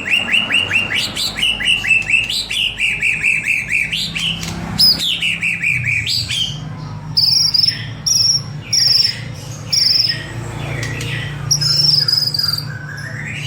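White-rumped shama (murai batu) singing. The first half is rapid runs of quick down-slurred chirps; after that come short, high whistled notes repeated about once every second. A faint steady low hum lies underneath.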